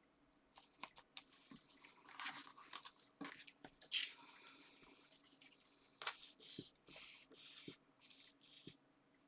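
Paper and card being handled: scattered light taps and crinkles, then a run of about five short scraping rustles near the end.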